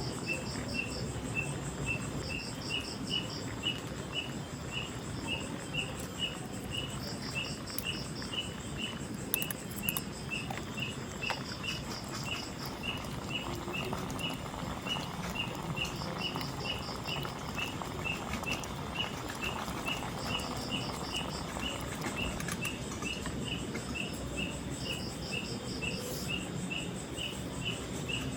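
Forest night chorus of insects: a regular high chirp about twice a second, with short pulsing trills from another insect recurring every few seconds, over a steady patter.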